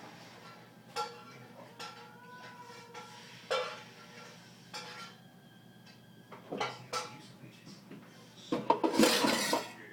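Scattered clinks and knocks of hard objects, some ringing briefly, then a louder burst of clattering near the end.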